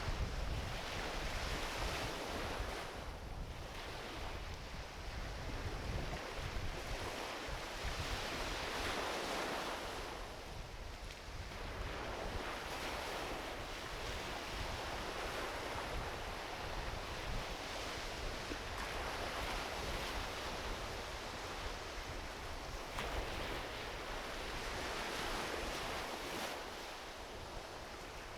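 Small ocean waves washing onto a beach, the surf swelling and ebbing every few seconds, with a low wind rumble on the microphone.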